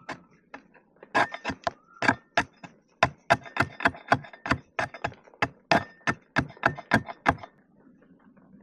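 Rapid, uneven chopping strikes of a blade on wood, about three to four a second, stopping a little past seven seconds in.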